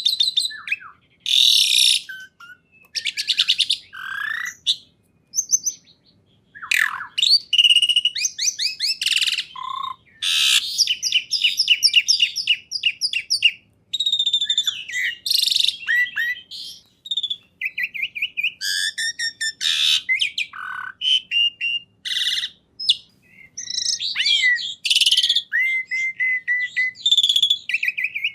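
Songbird singing a long, varied song of fast trills, whistled sweeps and chattering phrases, high-pitched, with short pauses between phrases.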